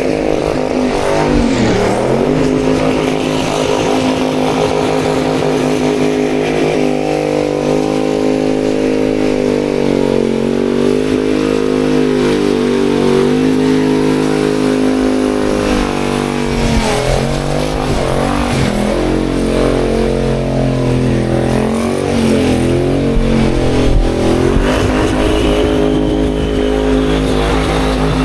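Car engine held at high revs on a burnout pad, its pitch dipping and climbing again several times as the throttle is worked, over a steady hiss.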